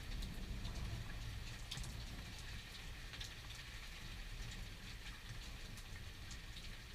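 Steady rain falling during a thunderstorm, with scattered sharp taps of individual drops and a low rumble underneath.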